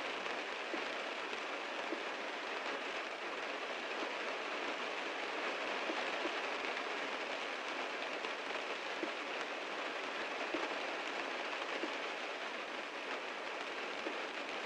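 Heavy rain falling on a car, a steady hiss with scattered single drops ticking.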